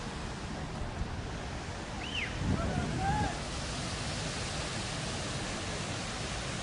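Steady rushing noise of heavy rainwater. About two to three seconds in come a few short, high calls that rise and fall.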